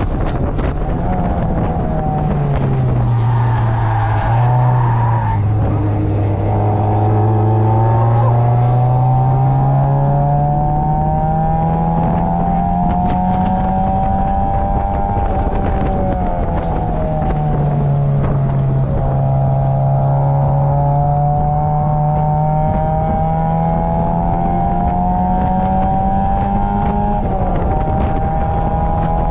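Mazda Roadster's 1.8-litre four-cylinder engine heard from the open cockpit at race pace, its pitch climbing steadily under hard acceleration and dropping sharply several times at gear changes and lifts for corners.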